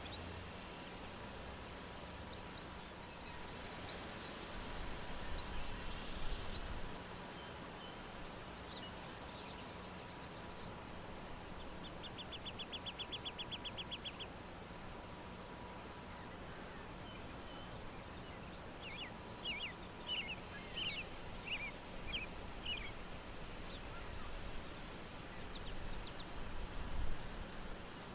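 Birds chirping and calling over steady outdoor background noise: scattered short high chirps, a rapid even trill for about two seconds near the middle, and a busier run of sharp chirps in the second half.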